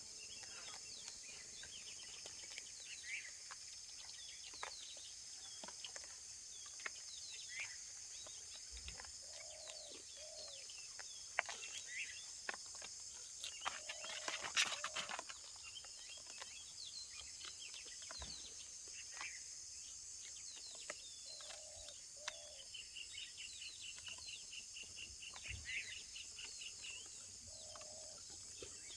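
Steady high-pitched insect chorus, with scattered bird chirps and short calls over it and a few sharp clicks.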